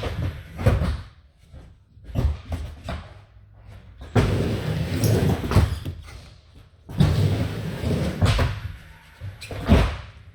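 Skateboards rolling on skatepark ramps, with a rough rumble of wheels broken by several sharp clacks and slams of boards landing and hitting the surface, echoing in a large indoor hall.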